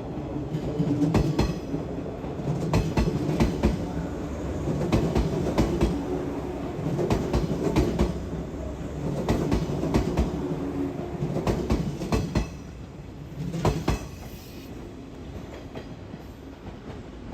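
Train running on rails: a low rumble with wheels clacking over rail joints. It grows quieter for the last few seconds.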